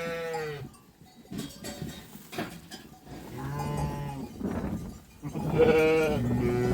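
Sheep bleating: several long calls, one at the start, one about three and a half seconds in, and a louder one near the end.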